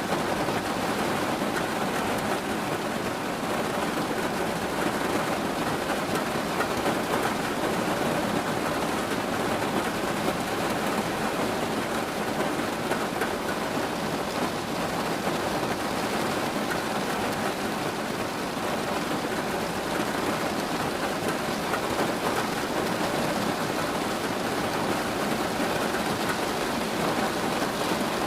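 Steady rain falling in a constant, even hiss, with no single drops or thunderclaps standing out.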